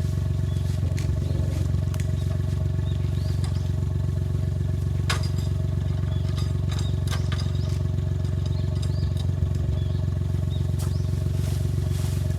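Suzuki Jimny JA11 off-road vehicle's engine running at a steady speed, with scattered sharp clicks and knocks over it.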